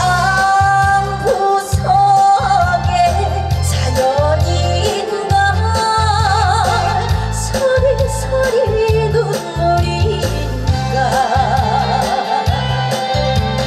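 A woman singing a trot song live over a full band backing track with a heavy bass line, her held notes wavering with wide vibrato.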